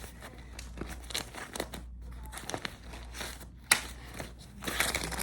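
Paper banknotes being handled and counted by hand: irregular crisp crinkles and flicks of the bills, with one sharper snap a little past the middle.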